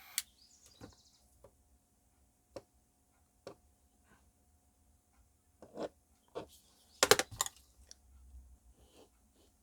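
Scattered light clicks and taps of small hard objects being handled, with a louder cluster of clacks about seven seconds in.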